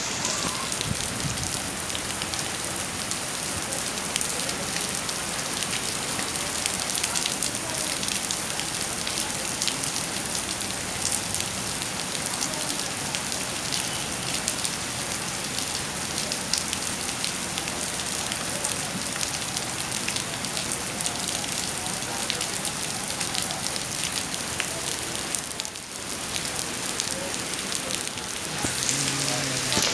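Heavy rain falling steadily, a dense hiss thick with individual drop hits.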